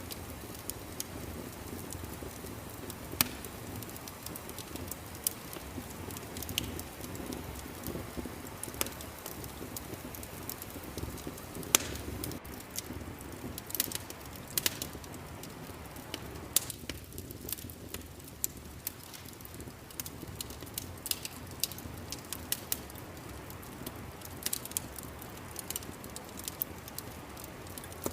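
Crackling fireplace: a steady low rumble of burning logs with sharp pops scattered throughout, coming more often in the second half.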